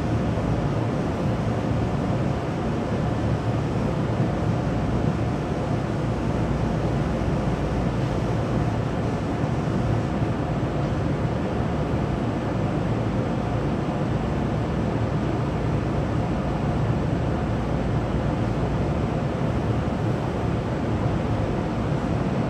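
Steady low rumble and hum inside a Keisei 3500-series commuter train car, unchanging throughout, with no rail-joint clicks or other distinct events.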